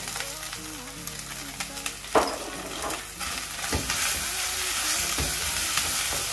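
Chicken pieces and freshly added chopped red onion sizzling in a hot frying pan while being stirred with a spoon, which knocks against the pan a few times. The sizzle gets louder about halfway through.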